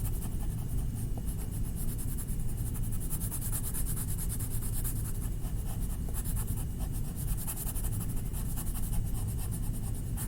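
Rapid, continuous back-and-forth strokes of a colouring tool rubbing on a paper art card as a drawing is coloured in, over a steady low hum.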